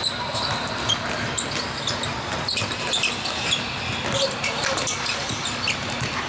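Basketball game play: a ball bouncing on the court and many short, high sneaker squeaks over a continuous background murmur.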